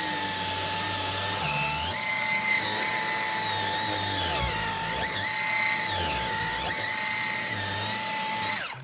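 Dyson V10 cordless stick vacuum running on its lowest power setting with the mini motorised brush head, a steady high motor whine over airflow hiss. Some higher tones dip and recover as the head is worked into the fabric of a dog bed. It shuts off abruptly near the end.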